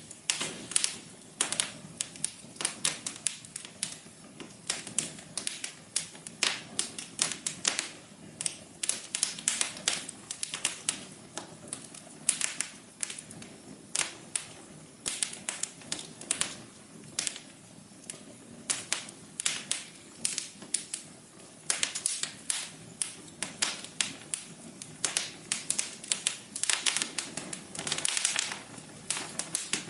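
Wood fire crackling in a fireplace: frequent irregular sharp snaps over a low, steady rush of burning.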